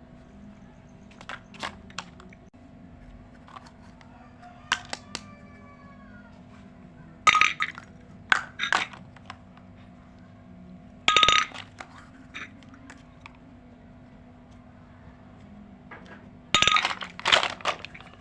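Tiny toy kitchen pieces being handled and set down: scattered light clicks and clinks, with three louder clattering clusters, some ringing briefly, over a faint steady hum.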